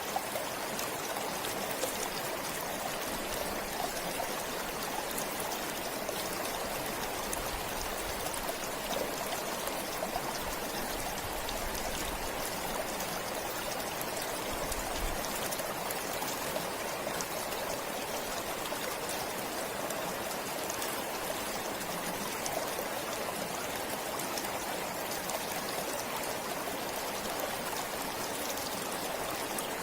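Forest stream flowing steadily, with water splashing and trickling over stones.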